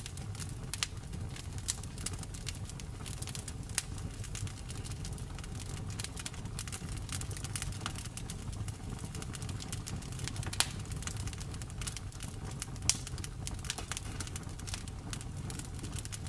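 Wood fire crackling in a fireplace: a steady low rumble of flames under frequent sharp snaps and pops, two of them louder, about ten and thirteen seconds in.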